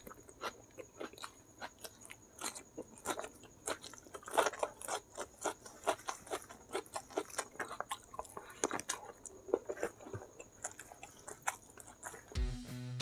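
Close-up chewing and mouth sounds of a person eating crispy fried chicken and rice by hand: a quick run of short wet clicks, smacks and light crunches. Music comes in near the end.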